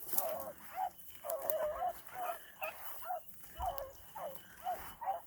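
Beagles baying on a rabbit track: a string of short, overlapping bawls, about two a second, from more than one hound as the pack runs the scent.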